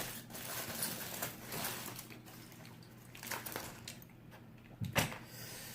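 Faint handling noises, soft rustles and light clicks over a low steady room hum, with one sharper click about five seconds in.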